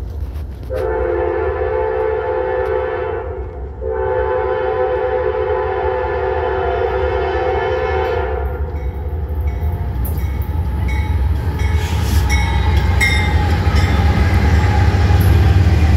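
Norfolk Southern freight train approaching and passing, its diesel locomotives' air horn sounding two long blasts. The horn stops about 8 seconds in, and the low rumble of the locomotives and the clatter of wheels over the rail joints grow louder as the lead engines go by.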